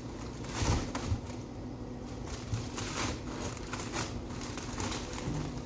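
Frozen-food packaging being handled while a freezer is cleared out: scattered soft plastic rustles and light knocks, over a low steady hum.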